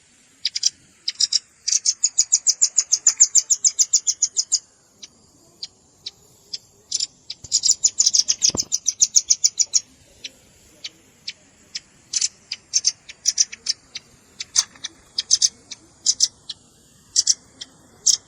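Velvet-fronted nuthatch calls: fast chattering runs of sharp, high-pitched chip notes at about seven a second, one lasting about four seconds near the start and another a couple of seconds long around eight seconds in, with scattered single chips in between and after.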